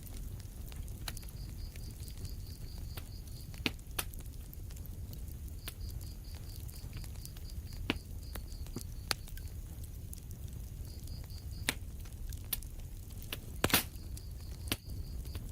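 Fireplace fire crackling over a steady low rumble, with irregular sharp pops and the loudest couple of pops near the end. A high, rapid chirping comes and goes in several short runs.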